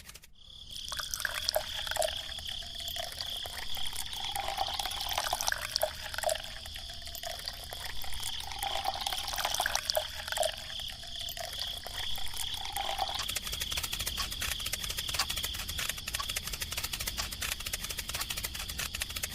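Water trickling and splashing with many small drips, over a steady high-pitched whine.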